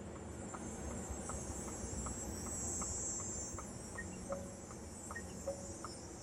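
Turn-signal indicator ticking steadily inside the cabin, about two and a half ticks a second, over low road rumble and a steady high hiss. From about four seconds in, short beeps join the ticking.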